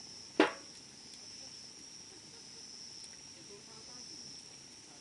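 Wood fire burning with faint scattered crackles and one loud, sharp pop about half a second in, over a steady high chirring of insects.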